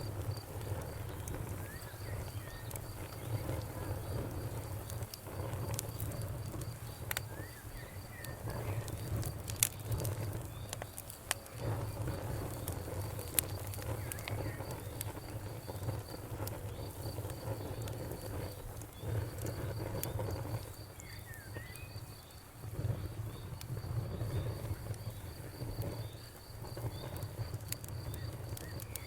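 Wood fire crackling with scattered sharp pops over a steady low rumble of flames, while crickets keep up a steady high pulsed chirping and a bird gives a few short chirps.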